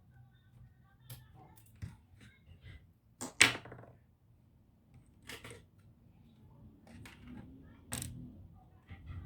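Irregular clicks and knocks of small tools and plastic and metal laptop parts being handled during disassembly, with the loudest knock about three and a half seconds in.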